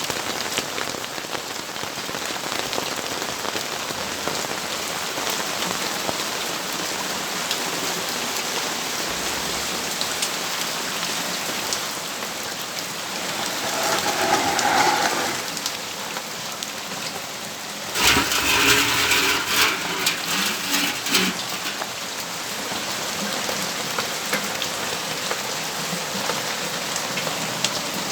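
Rain falling steadily on the balcony and nearby surfaces, an even hiss with pattering drops. A louder swell of noise rises about halfway through, and a louder, longer one with a faint hum in it comes about two-thirds of the way in, the loudest thing heard.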